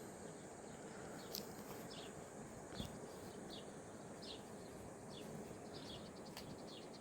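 A bird repeating a short, high, slightly falling chirp, roughly one a second, over faint outdoor background noise.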